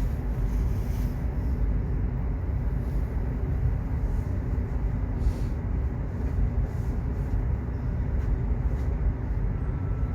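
Subway train running: a steady low rumble with no breaks.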